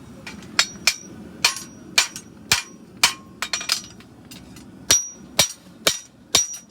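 Farrier's hammer striking a steel horseshoe on an anvil: about a dozen uneven blows, some heavier, some quick lighter taps, several with a short high metallic ring.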